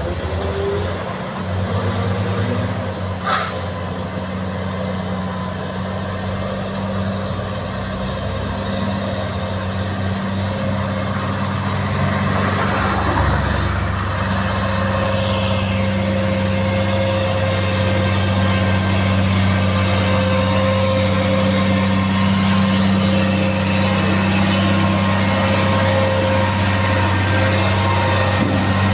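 Heavy truck engine running steadily, with a single sharp click about three seconds in.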